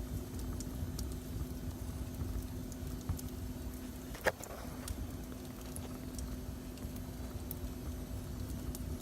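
Wood fire burning in a fireplace, crackling with scattered small snaps and one louder pop about four seconds in, over a low rumble and a steady low hum.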